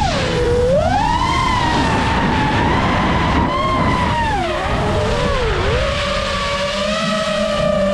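FPV racing quadcopter's motors and propellers whining in flight, the pitch swooping with throttle: a sharp drop just after the start, a climb back, two dips around the middle, then a steadier tone near the end.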